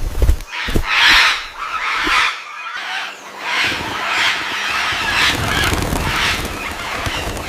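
A run of harsh, repeated animal calls, roughly one or two a second, over a low rumble that comes in about halfway.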